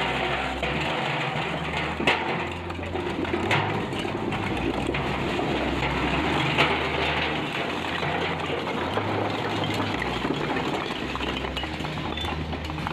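Dump truck engine running while the bed tips and the load pours out with a steady rushing, broken by a few sharp knocks.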